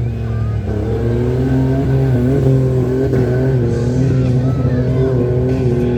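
Modified Ford Ranger off-road race truck's engine running hard at high revs, its pitch wavering slightly as the throttle varies.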